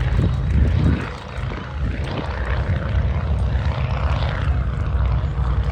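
Propeller-driven aircraft's piston engine running steadily overhead, heavy in the low end, dipping briefly in loudness about a second in.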